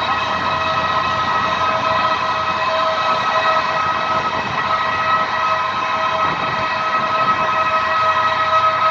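Aircraft turbine running with a steady, high whine made of several tones held together, over a rushing hiss.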